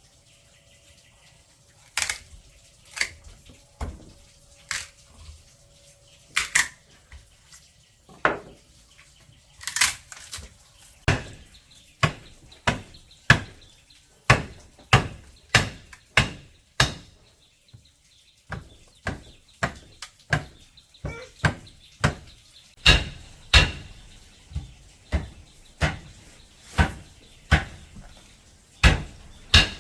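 A long series of sharp knocks or strikes, irregular at first and then a steady run of about one and a half to two a second, like repeated chopping or hammering blows.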